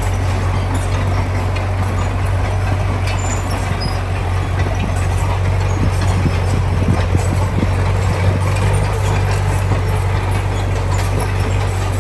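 Heavy construction machine's diesel engine running steadily at a low drone, with scattered clanks and rattles, most of them in the middle of the stretch.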